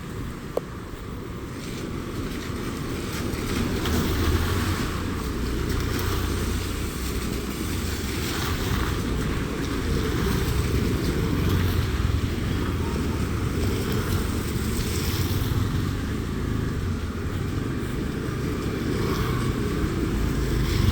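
Road traffic passing: a steady rumble of vehicles that swells and fades as cars and motorbikes go by.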